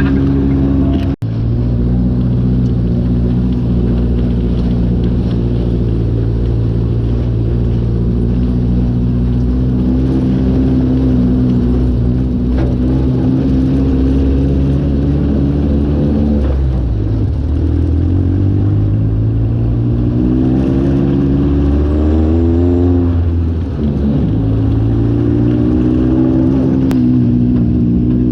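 Off-road buggy engine running steadily under load. In the second half its pitch drops, climbs again and falls off briefly, as the throttle or gear changes.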